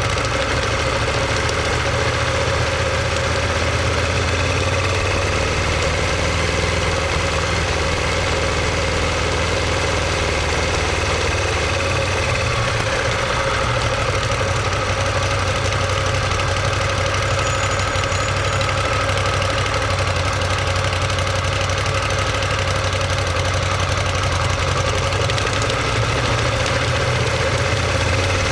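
Ducati Monster 1200S's L-twin engine running at a steady engine speed, heard mainly as exhaust note through a microphone mounted just above the muffler.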